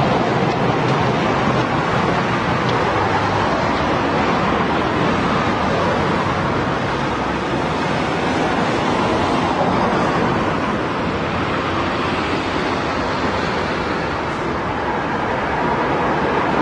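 Steady road traffic noise: a continuous wash of passing vehicles, easing slightly for a few seconds after the middle before building again.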